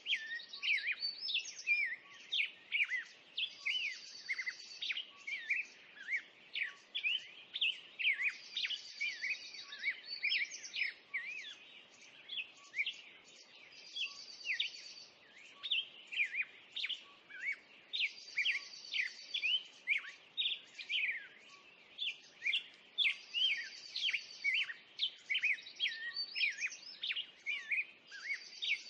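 A chorus of songbirds chirping and singing densely, with one short buzzy trill recurring about every five seconds.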